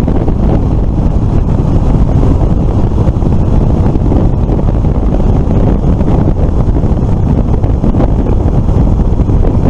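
Heavy wind rush buffeting the microphone of a rider moving at road speed, a steady loud rumble with the vehicle's running noise buried underneath.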